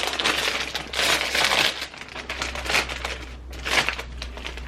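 A snack chip bag crinkling as it is opened and handled. The rustling is dense for about the first two seconds, then sparser, with one sharp crackle near the end.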